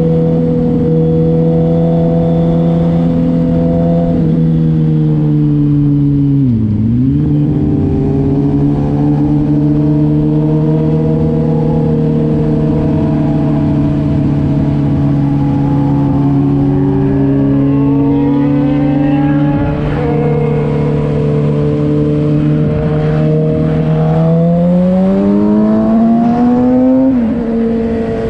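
Engine of a moving road vehicle running close by at a steady cruise. It dips briefly in pitch and comes back about a quarter of the way in, then climbs in pitch near the end and drops sharply.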